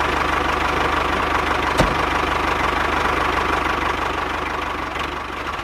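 A homemade mini tractor's small engine running steadily at idle, with a single click about two seconds in.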